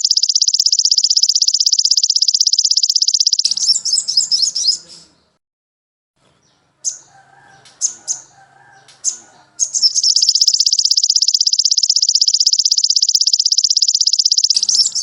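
A small songbird's very fast, high trill, held for about three and a half seconds, then a pause with a few short separate chirps and faint low sounds beneath, then the same long rapid trill again for about five seconds.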